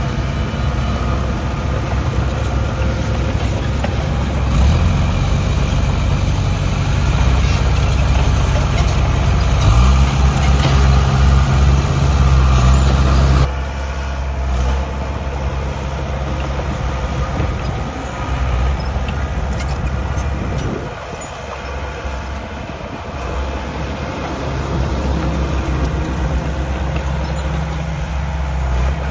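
Diesel engine of heavy earthmoving machinery running steadily. The sound drops abruptly in level about halfway through and then carries on at a lower level.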